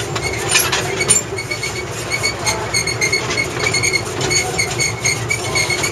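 Narrow-gauge sugar-cane railway train running steadily, heard from aboard an open carriage: a continuous rumble of the wheels and running gear, with short high squeaks repeating throughout.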